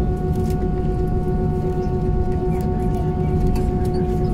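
Airbus A321 jet engines running steadily at low power, heard inside the cabin as a steady whine over a low rumble.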